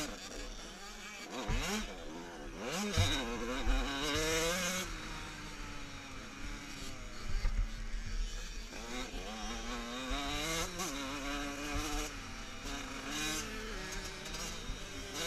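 Motocross bikes racing, several engines revving up and down through the gears and overlapping.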